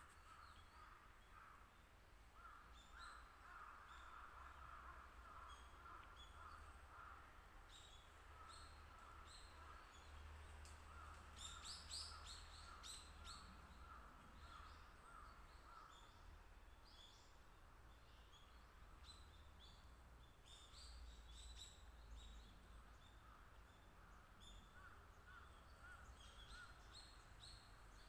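Faint birdsong and calls: a long run of repeated short notes, with sharp high chips and calls scattered over it, busiest about halfway through, and a low background rumble.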